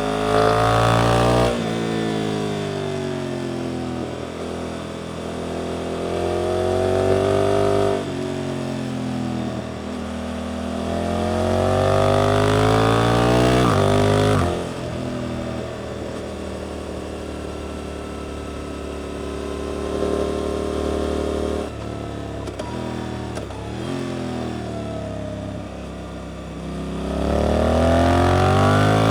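Suzuki GSX-8S parallel-twin engine through an Arrows aftermarket exhaust, on the move through tight corners. The engine note climbs hard three times (a short pull at the start, a long one in the middle, another near the end), each cut off sharply as the throttle closes, with lower, falling engine-braking stretches between.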